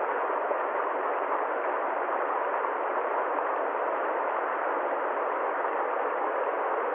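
Steady, unchanging rushing noise with no deep rumble and no high hiss, and no clicks, tones or rhythm in it.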